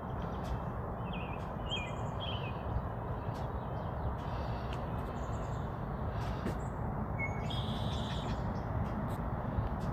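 Birds calling in short, scattered high chirps over a steady low rumble of background noise.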